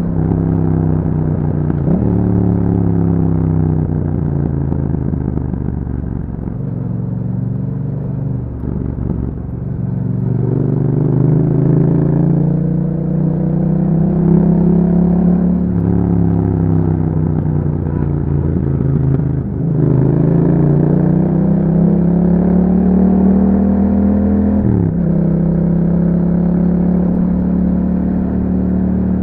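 Yamaha MT-07's parallel-twin engine through an Akrapovic exhaust fitted with dB killers, ridden with the engine note repeatedly rising under throttle and easing off. Its pitch drops suddenly a few times, as at gear changes.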